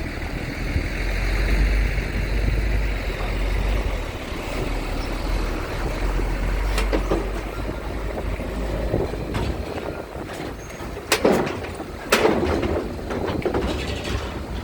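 Steady low rumble of strong wind buffeting the microphone, mixed with heavy vehicle and engine noise, followed by a few short, loud sounds near the end.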